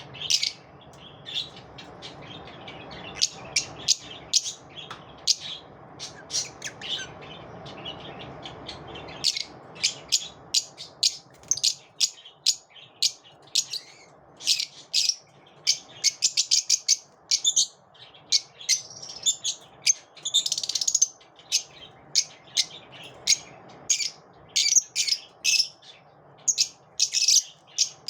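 Lovebirds chirping: many short, sharp, high-pitched chirps, coming thicker and faster after about nine seconds, over a low background hum that stops at that point.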